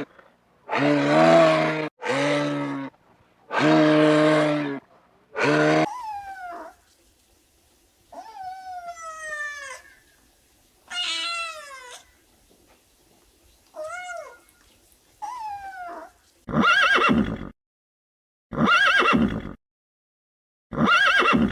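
A series of animal calls of three kinds: five deep, steady calls in the first six seconds, then five high calls that each fall in pitch, then three short, harsher calls near the end.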